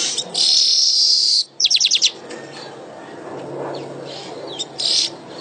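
Weaver bird (manyar) singing: a long, loud, buzzy hiss, then a quick run of about five sharp notes, and another short buzzy note near the end.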